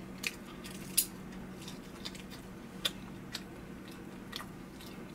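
Someone chewing chewy fried chicken gizzards: a handful of sharp, wet mouth clicks and small crunches, the loudest about a second in, over a faint steady hum.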